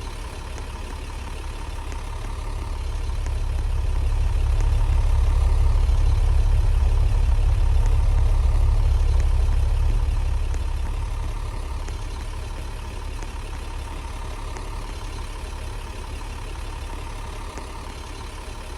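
MaxxForce diesel engine of an IC CE bus running at idle after start-up, a steady low rumble. It grows louder over a few seconds in the first part, holds there, then settles back to its earlier level.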